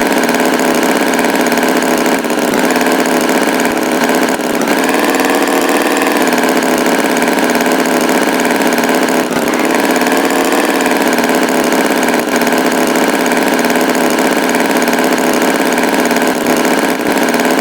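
Tractor engine running steadily, its pitch lifting slightly about four and a half seconds in and wavering around ten seconds in.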